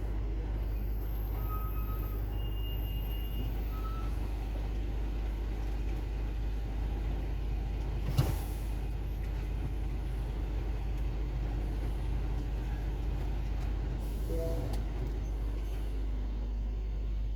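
Truck's diesel engine running with a steady low drone. About eight seconds in, a single brief sharp hiss-like burst cuts across it.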